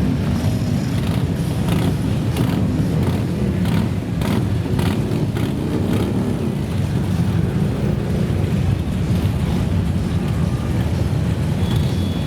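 Many motorcycle engines running together in a dense, steady rumble, with a few revs rising and falling.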